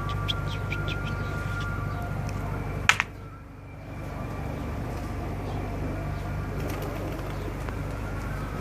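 Pigeons cooing over a steady low hum, with one sharp click about three seconds in.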